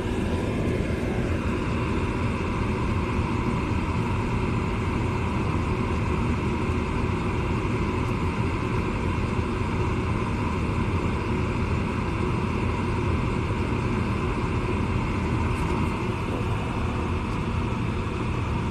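2014 York gas furnace running through its cycle, a steady whir of its fan motors and moving air with a low hum.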